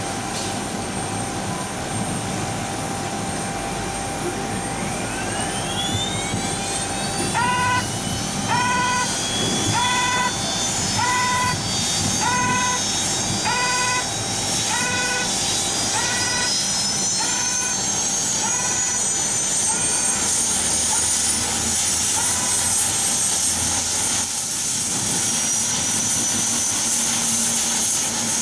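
Saab 340B's General Electric CT7 turboprop spooling up at engine start: a whine that begins rising in pitch about four seconds in and keeps climbing, over a steady rushing noise. From about seven to twenty seconds a short chirping tone repeats about once every 1.2 seconds, fading away.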